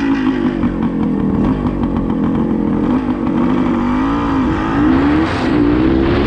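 Suzuki TS400 Apache's single-cylinder two-stroke engine running under throttle as the bike is ridden. The engine note rises and falls several times in the second half as the throttle is worked.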